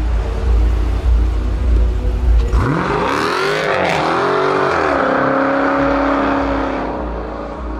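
Car engine revving hard. Its pitch climbs sharply about two and a half seconds in, swings up and down a few times, then holds steady before easing off near the end.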